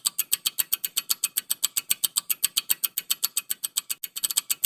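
Rapid, even ticking of a quiz countdown timer sound effect, about eight sharp ticks a second.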